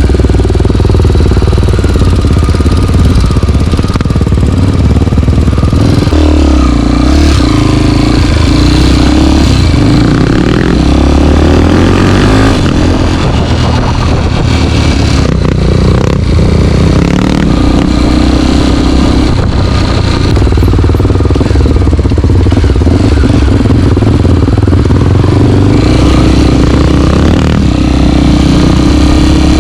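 Trail motorcycle's single-cylinder four-stroke engine running loud under throttle, revs rising and falling over and over as the rider works the throttle through the trail.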